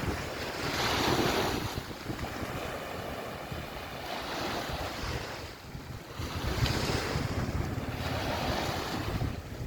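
Waves washing ashore, swelling and easing about every three seconds, with wind rumbling on the microphone.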